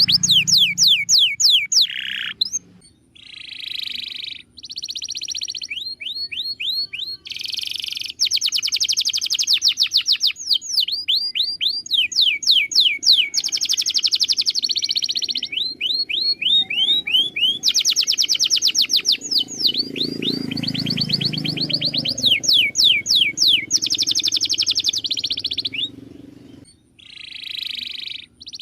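Domestic canary singing a long song of fast rolling trills and rapidly repeated sweeping notes, moving from one tour to the next, with short breaks just under 3 seconds in and near the end.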